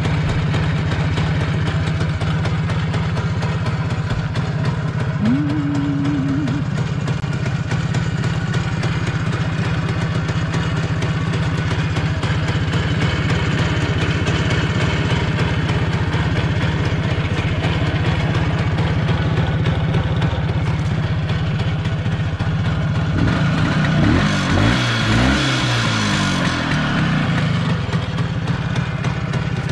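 Jawa ČZ 175 type 477 single-cylinder two-stroke motorcycle engine idling steadily after a cold-weather start. Near the end it is briefly revved up and back down.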